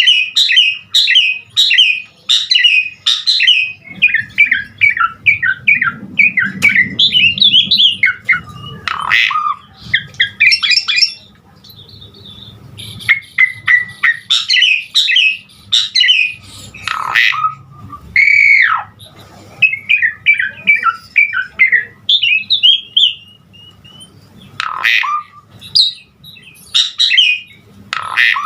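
Javan pied myna (jalak suren) singing vigorously, its song packed with varied phrases: fast runs of chirps and repeated notes, harsh squawks, and one long arching whistle about two-thirds of the way through.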